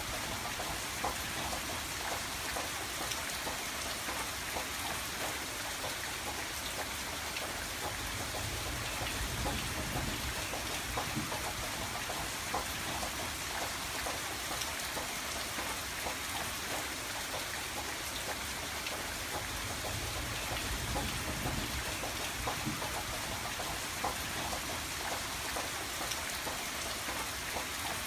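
Steady rain on window glass, a continuous hiss dotted with many small drop ticks. A low rumble underneath swells twice, about a third and about three quarters of the way in.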